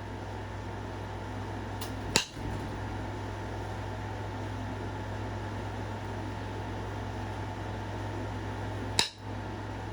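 Two sharp clicks about seven seconds apart as flakes snap off a stone point being knapped, over a steady low hum.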